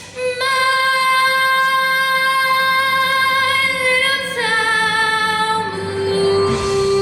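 A girl's solo singing voice holds one long note for about four seconds, wavering slightly near its end. She then steps down to two lower held notes.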